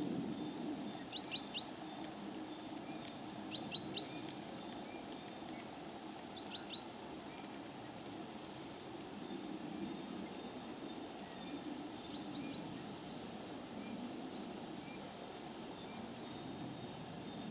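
A bird's short, sharp high calls in quick groups of three, repeated four times with a brief higher trill among them, over a steady low background rumble.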